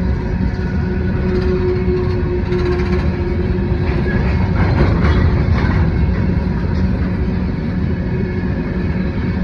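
Norfolk Southern coal train rolling past close by: a loud, steady rumble of the train on the rails, a little louder around the middle.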